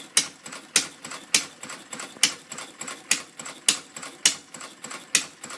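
Working replica of Henry Ford's 1893 single-cylinder four-stroke engine, fired by a Model T buzz coil, running and puttering with sharp firing pops about twice a second and lighter clatter between them.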